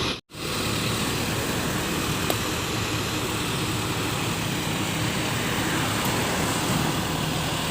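Steady vehicle noise, a continuous even rumble and rush with no distinct events. It drops out for a moment just after the start.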